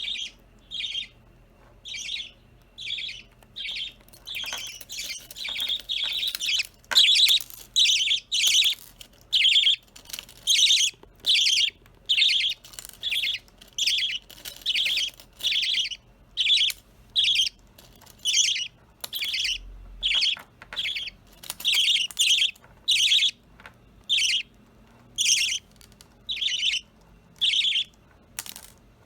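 Budgerigars calling: a long run of short, buzzy chirps, repeating about once a second.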